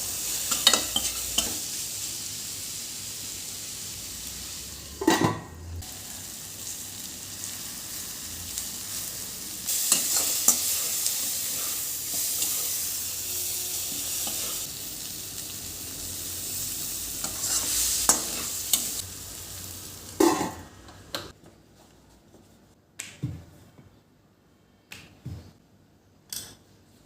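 Food sizzling in a hot pan while a spoon stirs it, with occasional knocks against the pan. The sizzling stops about twenty seconds in, leaving a few separate knocks.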